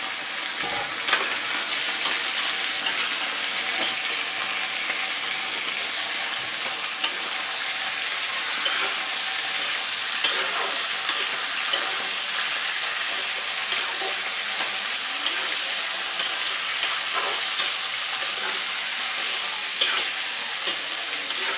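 Chicken pieces sizzling as they fry in hot oil with onions and tomatoes in a kadai. A metal spatula stirs them and clicks and scrapes against the pan now and then.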